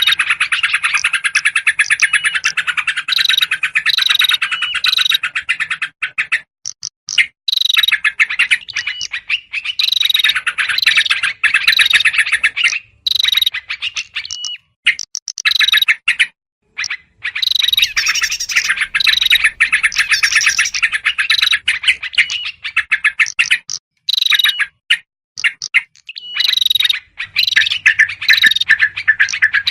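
Bird-lure recording of noisy yellow-vented bulbul alarm chatter mixed with small birds such as prinias: rapid buzzy trills with short high notes repeated over them. It comes in bouts, with a few brief gaps.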